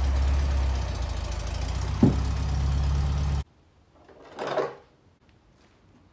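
Air-cooled VW Beetle flat-four engine idling, with one sharp clunk about two seconds in, then cutting off abruptly. After it, a plastic car ramp scrapes briefly on the floor as it is picked up.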